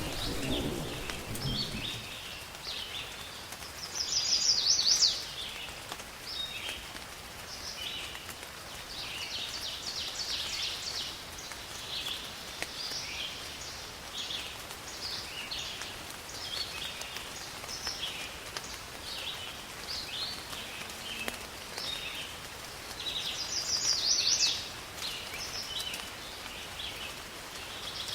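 Birds chirping repeatedly over a faint steady hiss of rain, with a louder, higher call about four seconds in and again near the end. A low rumble of thunder dies away in the first two seconds.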